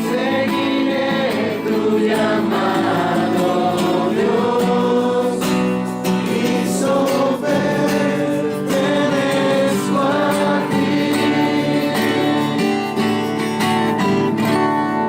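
A group of voices singing together to acoustic guitar.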